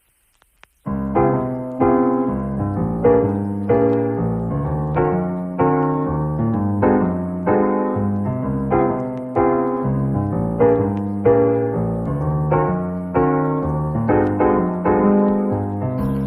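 Background piano music: chords struck about every half second to second and left to ring, starting about a second in.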